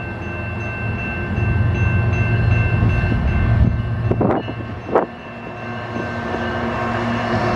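Train passing: a steady low rumble that grows louder, with two sharp knocks about four and five seconds in.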